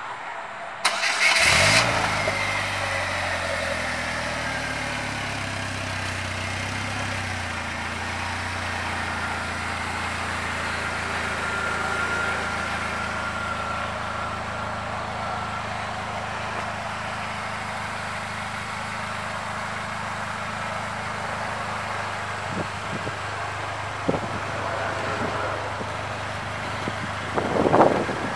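2019 Polaris Slingshot SL's 2.4-litre four-cylinder engine cranked and started about a second in, running a little faster at first and settling to a steady idle after about seven seconds. A brief louder burst comes near the end.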